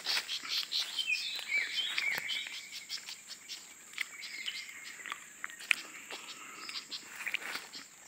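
Small birds chirping in quick, short calls, with a few falling whistles about one to two seconds in. A steady high insect drone runs underneath.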